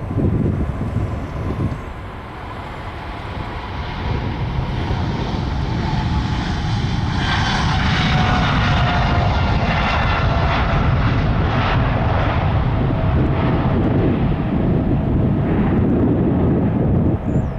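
Boeing 777-300 jet engines at takeoff thrust, growing louder over the first several seconds into a steady heavy rumble, with a whine from the engines heard clearly in the middle.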